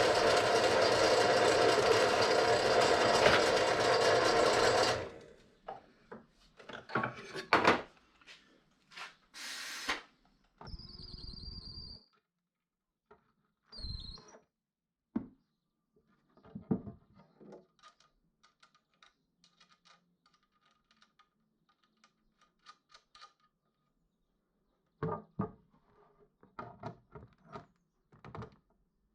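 Power drill boring holes through the wooden rudder box for M6 screws: it runs steadily for about five seconds and then stops. After that come scattered clicks and knocks of handling, with a couple of short whirring bursts.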